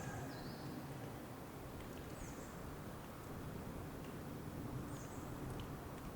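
Outdoor nature ambience: a small bird gives three short, high chirps about two to three seconds apart, over a steady low background noise.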